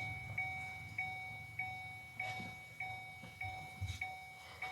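A car's electronic warning chime repeating steadily, a two-note tone struck about every 0.6 s, with faint knocks of parts being handled underneath.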